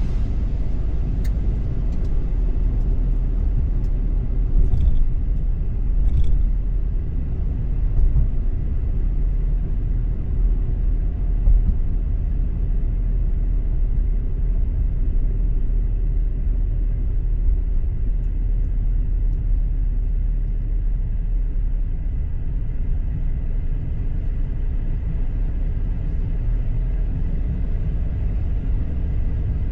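Steady low rumble of a car driving along the road, engine and tyre noise, with a few faint ticks in the first few seconds.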